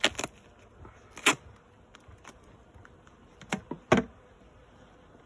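Hard knocks and clicks of a beehive's parts being handled as the hive is opened: a handful of separate strikes, the loudest about four seconds in.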